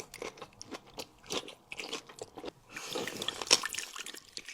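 Close-miked eating: chewing and crunching with irregular wet mouth clicks, busiest about three seconds in.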